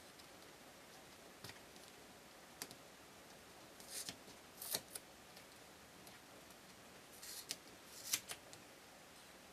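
Faint, sharp clicks and crisp snips from small hand tools at work, in two short clusters about four seconds in and again around seven to eight seconds in.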